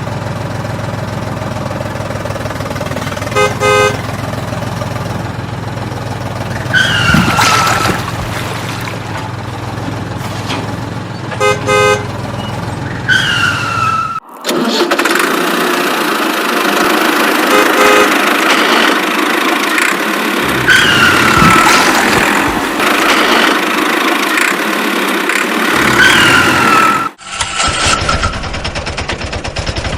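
Vehicle sound effects: an engine running steadily, with short horn beeps a few times and several brief falling tones. The sound changes abruptly twice, as at cuts between clips.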